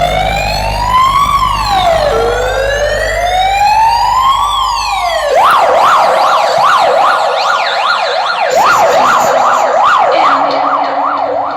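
Electronic siren sound effect played loud through a big show sound system: slow wailing sweeps over a deep bass drone, switching about five seconds in to a fast yelp of about two cycles a second.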